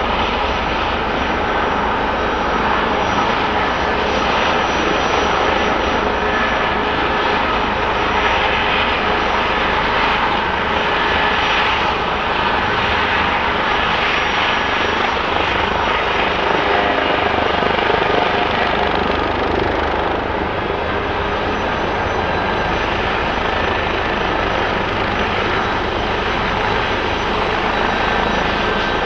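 A helicopter running steadily, with dense engine and rotor noise and a thin, high, steady whine over it.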